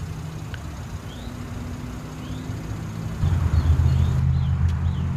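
A vehicle engine idling: a steady low rumble that gets clearly louder about three seconds in.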